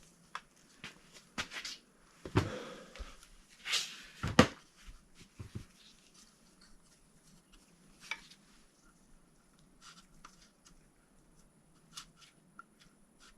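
Scattered clicks and knocks of a cast-metal oil pump being turned and shifted by hand against the engine block to line up its dowel pin. A cluster of louder knocks comes about two to four and a half seconds in, then only a few faint ticks.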